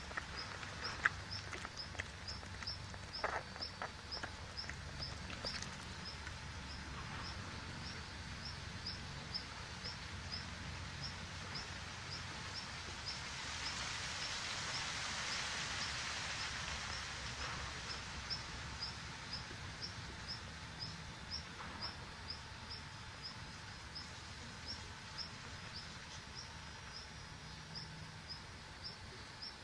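Outdoor ambience with a small bird's short high chirp repeating evenly about twice a second, and a few scratches and rustles of rabbits moving in loose soil in the first several seconds. A soft rush of noise swells and fades midway.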